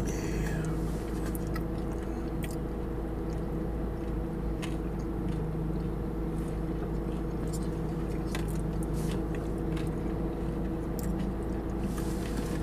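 People chewing and biting food, with scattered small clicks and mouth sounds, over a steady low hum inside a car cabin.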